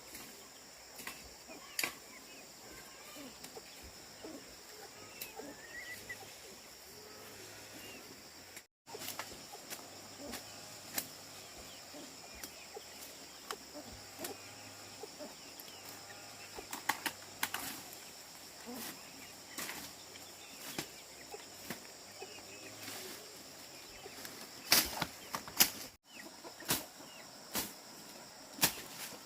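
Steady high drone of insects with scattered short snaps, clicks and rustles of close handling; the sound cuts out briefly twice.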